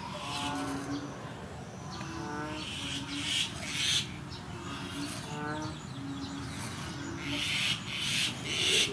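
A bird calls over and over, a low hooting note with rising notes above it about every two to three seconds. Between them, a kitchen knife scores slashes into catfish skin on a wooden cutting board, each cut a short scrape, the loudest ones near the middle and near the end.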